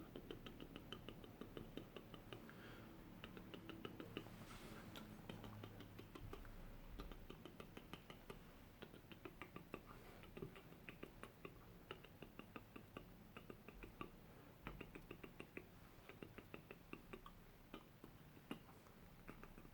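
Soft, quick clicks close to the microphone, several a second: an ASMR clicking trigger.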